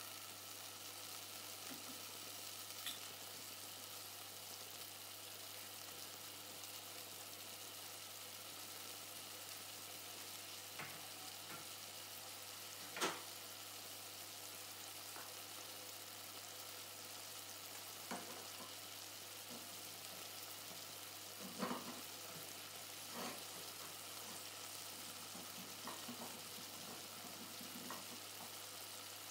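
Chicken breast pieces with onion and spices frying in a stainless steel pot: a faint, steady sizzle with scattered small pops, the loudest a little before halfway.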